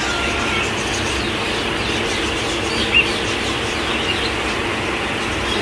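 Birds in an aviary chirping, short high chirps scattered throughout and one sharper chirp about three seconds in, over a steady rushing background noise.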